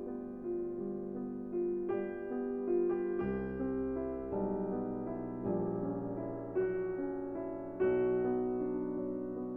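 Soft background piano music, slow notes and chords.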